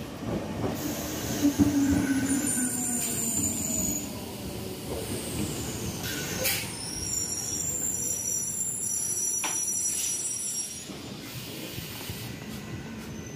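A train running through the station platform, its wheels giving high-pitched metal squeals twice, with a sharp clank about six and a half seconds in. The rumble eases off about eleven seconds in.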